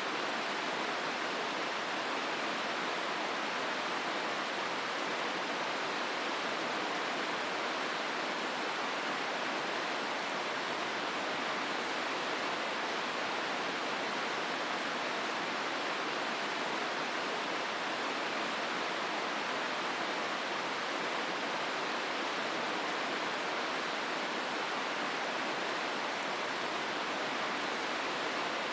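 Hozu River water rushing steadily through the gorge: an even, unbroken wash with no change in level.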